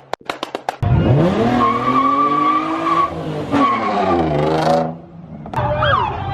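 Rapid sharp pops, then a modified car accelerating hard away, its engine revving up and easing off while the tyres squeal. A siren starts near the end.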